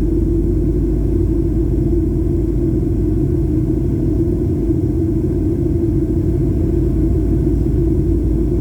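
Steady drone of a Boeing 737-800's CFM56 engines and airflow heard inside the passenger cabin, a low rumble with a constant hum.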